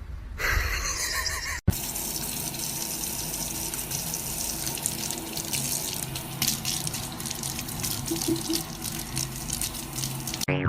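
Running water: a steady splashing hiss that starts abruptly about a second and a half in.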